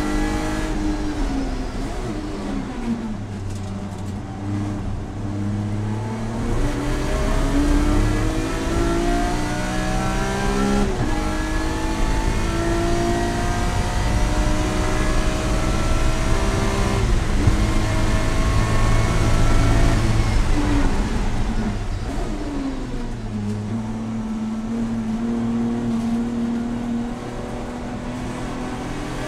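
Track car's engine heard from inside the cabin under hard lapping: the revs climb in long rising pulls broken by gear changes, fall away steeply under braking and downshifts about two thirds through, then climb again near the end.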